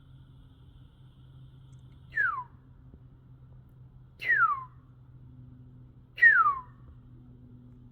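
An animal's whistled call, repeated: short clear notes, each sliding down in pitch, about one every two seconds.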